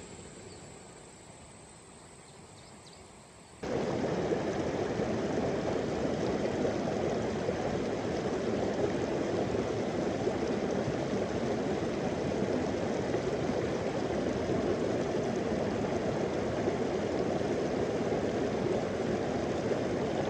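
Steady rushing water from a mountain stream that cuts in abruptly about four seconds in. Before it there is only a quiet background with a faint high tone.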